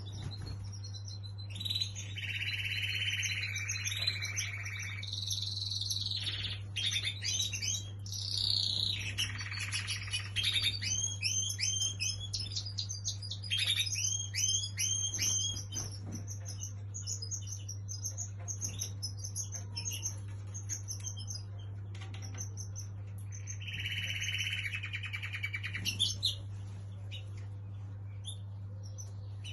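Small cage birds chirping and calling in quick, overlapping bursts, busiest in the first half, over a steady low hum.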